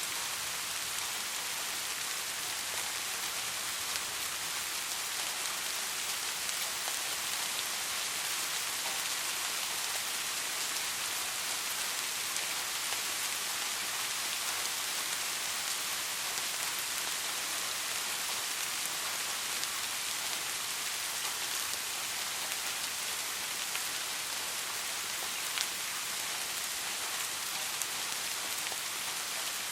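Steady soft rain falling on a surface: an even hiss with scattered individual drops ticking through it.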